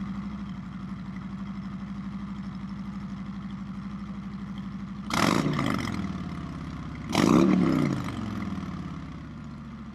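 Harley-Davidson V-twin on its stock mufflers idling, then revved twice, about five and seven seconds in, the second rev the louder, before dropping back to idle. The stock exhaust peaks around 93 dB on a sound level meter.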